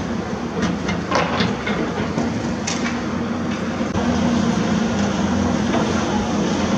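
Diesel engine of a heavy excavator running steadily, with a series of sharp metallic clanks and knocks in the first few seconds. The engine grows louder about four seconds in.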